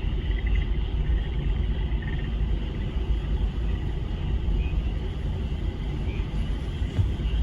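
A steady frog chorus with short pulsed trills over a continuous rumble that is the loudest sound throughout.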